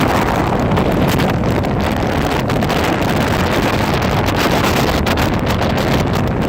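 Storm wind blowing hard across the microphone: a loud, steady rush and rumble.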